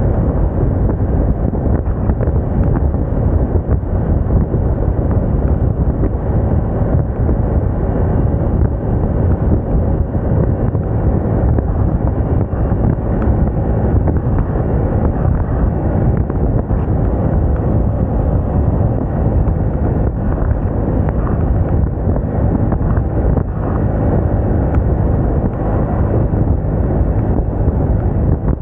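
A Moda Moca 110 scooter on the move at a steady speed: its engine running under loud, steady wind noise buffeting the microphone.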